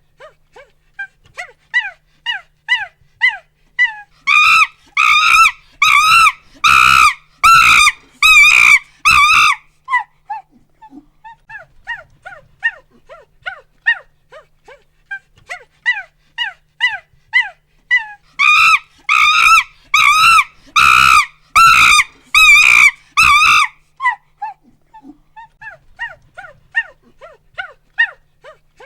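A primate hooting and screaming. A run of short rising hoots quickens and grows into about six seconds of loud, rapid screams, then dies back to softer hoots. The same build-up and screaming come again past the middle of the clip.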